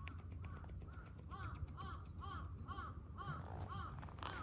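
A bird calling over and over in short arched notes, about two a second.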